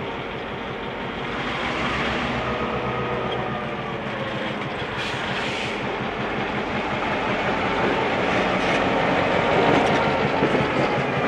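A train rolling slowly along the track, its wheels running on greased rail, growing louder toward the end.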